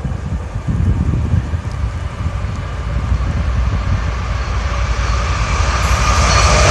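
Approaching freight train led by a Union Pacific GE AC45CCTE diesel-electric locomotive, its engine and wheel-on-rail noise growing steadily louder as it nears. Near the end a hiss of wheels on the rails builds.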